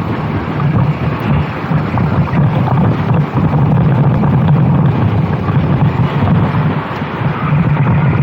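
Racing kart engine running hard at speed, its pitch holding fairly steady with small dips, with wind buffeting the microphone.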